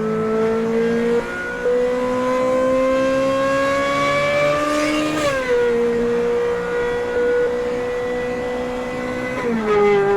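Ferrari 458 Spider's 4.5-litre V8 under way: the revs climb slowly, then the pitch drops sharply about five seconds in as it upshifts. It holds a steady note, then drops again near the end with another upshift.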